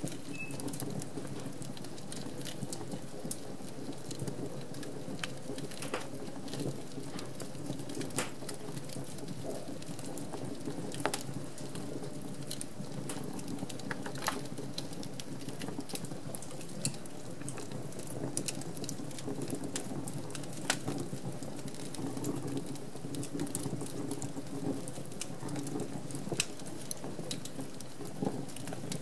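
Wood fire crackling in a fireplace: a steady low rush of flames with irregular sharp snaps and pops, a few of them louder.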